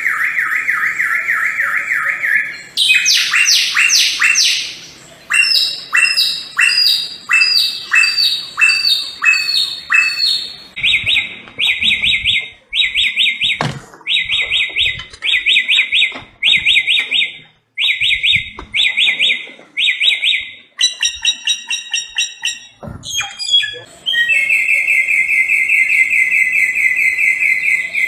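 Samyong, an Indonesian endemic songbird, singing loud, clear whistled phrases. It opens with a fast trill, then runs through series of repeated notes and short phrases separated by brief pauses. A long, even trill begins about three-quarters of the way through.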